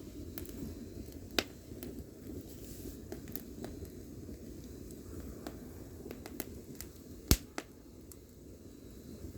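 Burning firewood crackling with scattered small snaps over a low steady rush of the fire, and two sharp loud pops, one about a second and a half in and one about seven seconds in.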